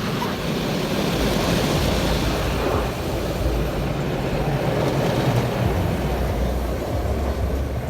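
Automatic car wash working over the car, heard from inside the cabin: a steady, loud rushing noise.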